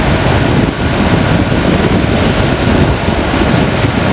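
Loud, steady wind rushing over an action camera's microphone on a moving motorcycle, with the bike's engine and road noise buried underneath.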